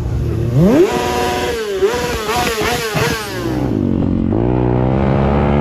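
Sportbike engine revving up sharply and held at high revs with a wavering pitch during a wheelie stunt. About four seconds in it gives way to a dirt bike's engine running at lower revs and slowly picking up.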